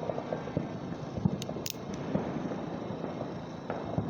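Two short, sharp cracks about a third of a second apart, about a second and a half in, over a steady low background clutter.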